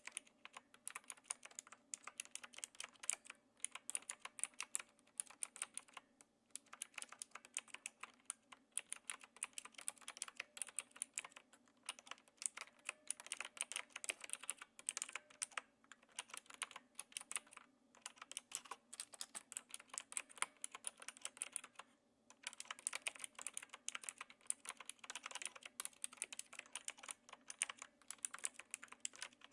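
Typing on a Knewkey Rymek typewriter-style mechanical keyboard with blue switches: a steady run of crisp key clicks, broken by a few short pauses.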